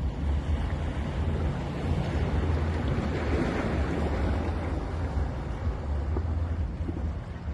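Sea waves breaking on a beach, one wave swelling and washing in about three seconds in, over a steady low rumble of wind on the microphone.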